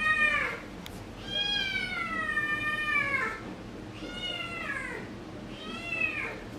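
A house cat meowing repeatedly in long, drawn-out calls: the end of one meow, then three more, each falling in pitch at its end.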